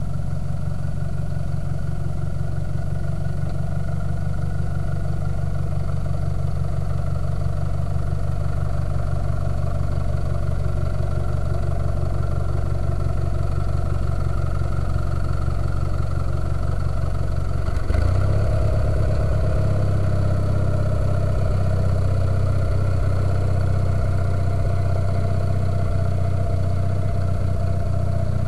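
Sears garden tractor engine running steadily while plowing, its note shifting and getting a little louder about two-thirds of the way through.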